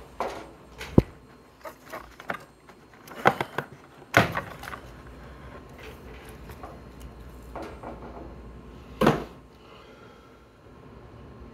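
A series of irregular knocks and clunks, like things being handled or set down, over a faint low hum; the loudest come about a second in, about four seconds in and about nine seconds in.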